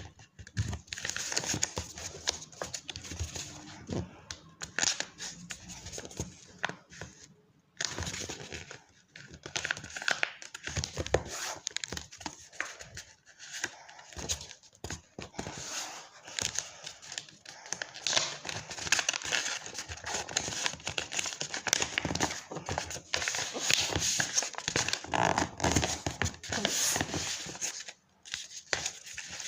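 A sheet of paper being handled, folded and creased, with continual irregular crinkling and rustling. It pauses briefly about eight seconds in and again near the end.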